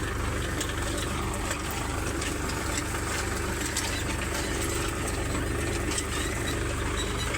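Tractor engine running steadily while pulling a wheat seed drill, with faint scattered clicks over the engine's low, even running.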